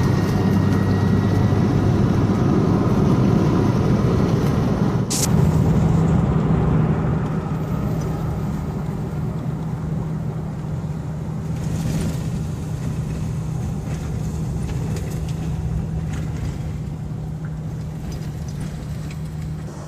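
Steady low drone of a running motor vehicle, with a steady hum, and a sharp click about five seconds in.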